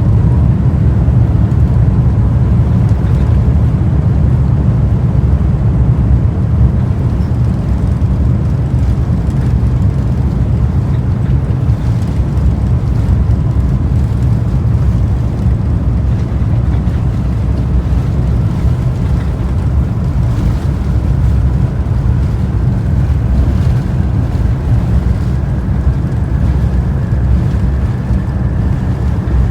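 Airbus A350-1000's Rolls-Royce Trent XWB-97 jet engines running with a loud, steady low rumble, and a whine that rises in pitch over the second half as the engines spool up for take-off.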